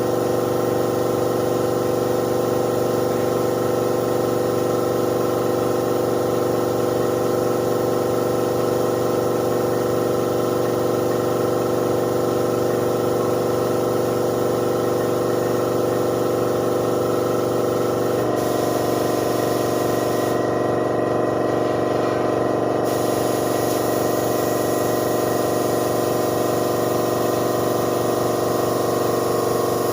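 Air compressor running steadily under a paint spray gun's hiss. The machine's tone shifts slightly a little past halfway, and the hiss stops for a couple of seconds soon after.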